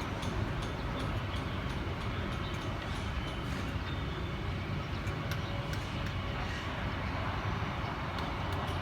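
Vietnam Airlines jet airliner landing: a steady rumble of engine and rolling noise, even in level throughout.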